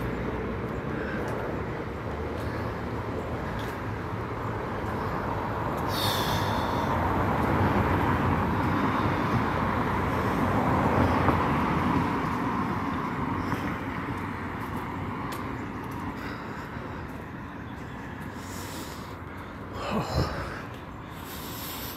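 A passing vehicle: a steady rushing engine noise that slowly swells to its loudest around the middle and then fades away. There is a short high hiss about six seconds in.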